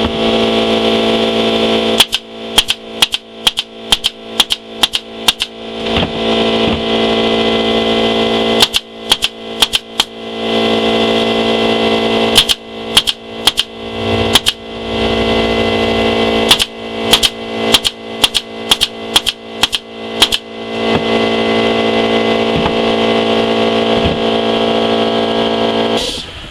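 Staple gun driving 1-inch staples into the sides of a wooden nuc box, firing sharp shots in quick runs of several with short pauses between, over a steady machine hum.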